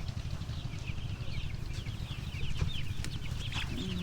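A flock of week-old broiler chicks peeping, with many short falling chirps overlapping, over a low steady rumble.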